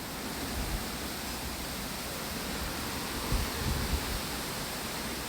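Steady wind hiss, with a few soft low gusts buffeting the microphone about three to four seconds in.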